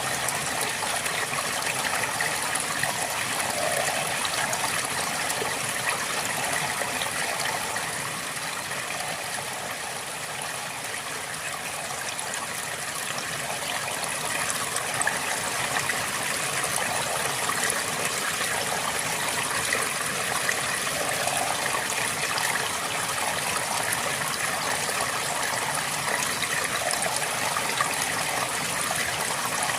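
River water flowing steadily over rocks: a continuous rushing and trickling, easing slightly for a few seconds near the first third.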